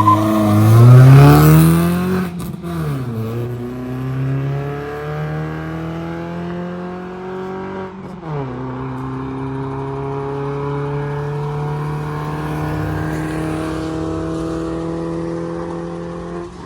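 Engine of a Maruti Suzuki Baleno on a stage-2 ECU remap, pulling hard through the gears. Its pitch climbs in long steady pulls, dropping at upshifts about two and a half and eight seconds in. It makes a long sound that carries from far off.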